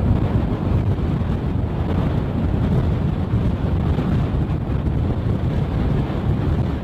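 Strong wind buffeting the microphone as a steady low rumble, mixed with the road noise of a moving vehicle.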